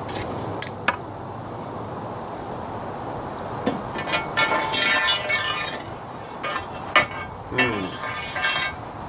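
Metal objects clinking and clattering as they are handled, with a stretch of ringing metallic clatter from about four to six seconds in and scattered sharp knocks before and after.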